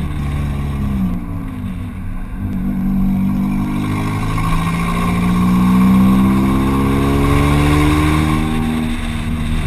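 Acura RSX's four-cylinder engine pulling under acceleration, its pitch climbing steadily for several seconds, holding, then dropping near the end.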